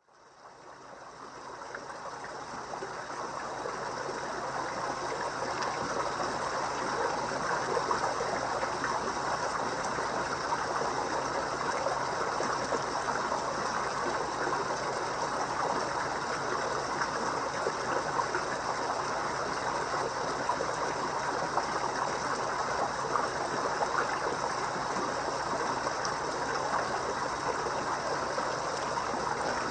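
Koi pond water trickling in a steady, even rush, fading in over the first few seconds.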